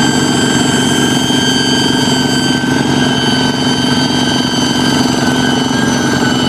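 Kubota single-cylinder diesel engine of a hand tractor running steadily, its rapid low chug overlaid by a steady high-pitched whistle, the 'fighter jet' sound of its modified setup.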